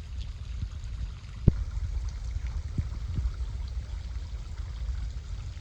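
Running water splashing steadily over a low rumble, with a sharp knock about a second and a half in and a few fainter knocks after it.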